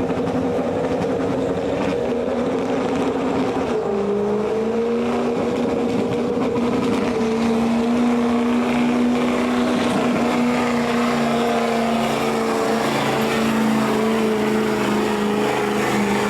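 Engine of a competition pulling vehicle running hard at high, steady revs under load, its pitch dropping a little about four seconds in and then holding.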